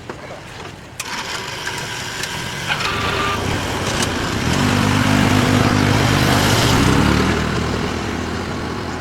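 A motor vehicle's engine running close by and passing. It gets louder from about a second in, is loudest a little past the middle, then fades.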